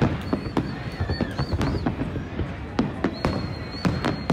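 Aerial fireworks shells bursting in a rapid series of bangs over crowd voices, with a high whistle held twice.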